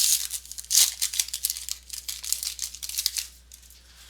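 Trading cards and their packaging being handled: a quick run of rustling, crinkling scrapes and flicks, loudest at the start and about a second in, dying away after about three seconds.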